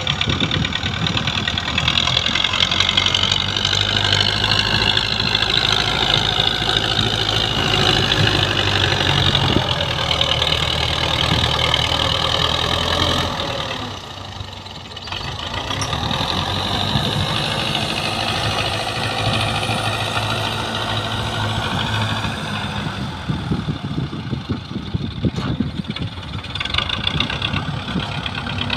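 Belarus tractor's diesel engine running steadily, easing off briefly about halfway through and then picking up again.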